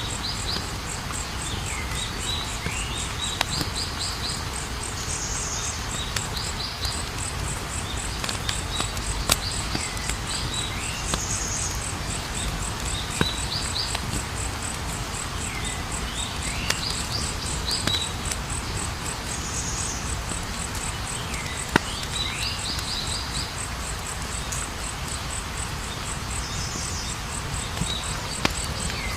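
Campfire burning with a low steady rush and scattered sharp crackling pops. Over it runs a steady high insect trill, and a bird calls every four to five seconds with short falling notes and a quick stuttered phrase.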